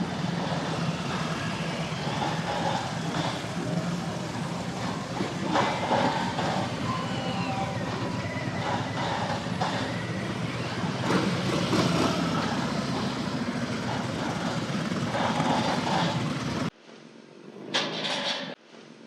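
Steady engine noise of a dense stream of motorcycles and other traffic, with a low hum under it. It cuts off abruptly about seventeen seconds in, leaving a much quieter background with a couple of short louder bursts.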